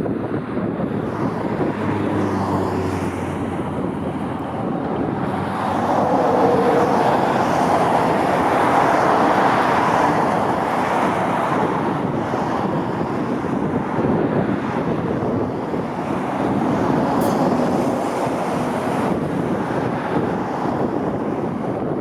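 Jet airliner passing, its engine noise swelling to a peak in the middle and easing off, with wind buffeting the microphone.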